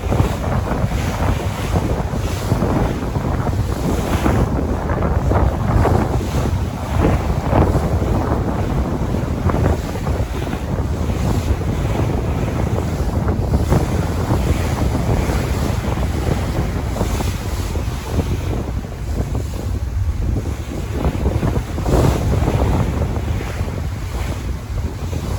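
Sea waves washing continuously, with wind buffeting the microphone as a heavy low rumble.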